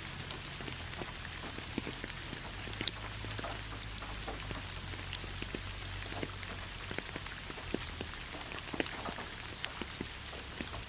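Steady rainfall: an even hiss of rain with many individual drops ticking sharply on a nearby surface.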